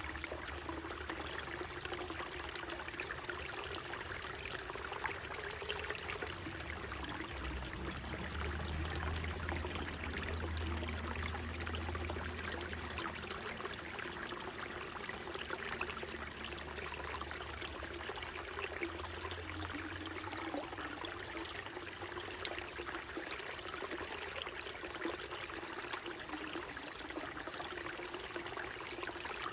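Small mountain stream on Mount Tsukuba's slopes, water running and splashing over rocks in a steady, dense trickle. Under it a low hum swells to its strongest about ten seconds in and fades out by about twenty seconds.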